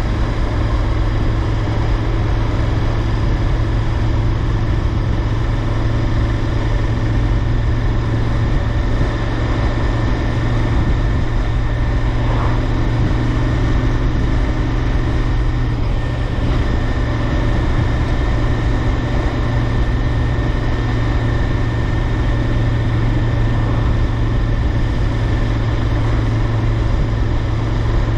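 Royal Enfield Interceptor 650's 648 cc parallel-twin engine running steadily while the motorcycle is ridden, the engine note holding at one pitch with no revving up or down.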